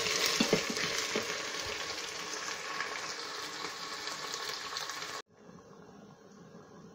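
Onions and ginger-garlic paste sizzling and spitting in an Instant Pot's stainless inner pot on the high sauté setting, with a few knocks of a wooden spoon in the first second or so. A little after five seconds in, the sizzle cuts off abruptly and only a faint background remains.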